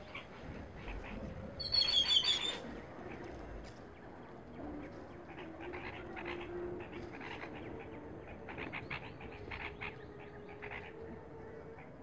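A small bird chirping: a short burst of high chirps about two seconds in, then only faint, scattered ticks.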